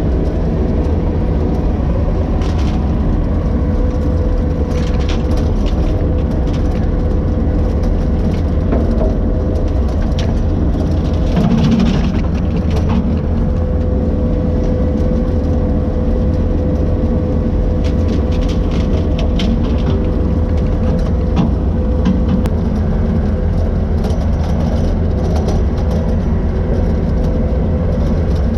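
Skid steer's engine running steadily with a constant whine over it, and scattered sharp cracks and snaps.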